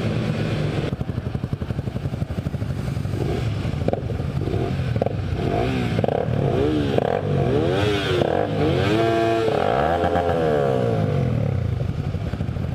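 Motorcycle engine running hard, its revs rising and falling again and again, with quick up-and-down swings in the second half.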